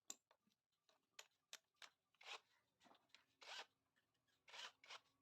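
Faint hand work on motorcycle engine parts: a few sharp clicks and short scraping strokes, three of them more prominent than the rest.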